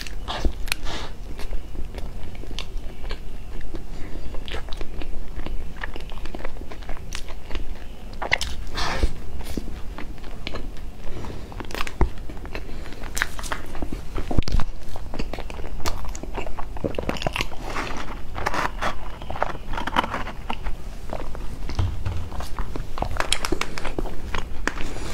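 Biting into and chewing a flaky pastry close to a clip-on microphone, with irregular soft crunches and wet mouth sounds. Near the end, plastic food boxes click and rustle as they are handled.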